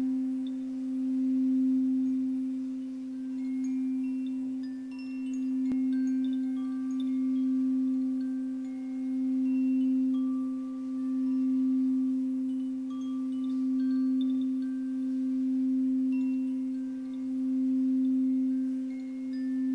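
Sound-bath drone: one steady low tone held throughout, swelling and fading about every two seconds, with faint, short, high chime notes scattered over it.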